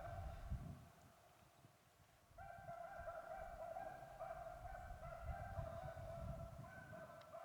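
Beagles baying on a rabbit's trail, several drawn-out voices overlapping. They break off for about a second and a half near the start, then pick up again.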